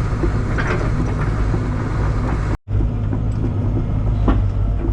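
Tracked excavator's diesel engine running steadily as the machine travels over the ground, with faint knocks from the undercarriage. The sound cuts out for an instant a little over halfway through.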